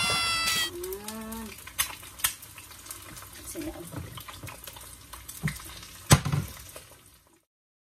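Eggs frying in oil in a skillet: a soft, steady sizzle with a few sharp taps and clicks. The sound cuts off abruptly near the end.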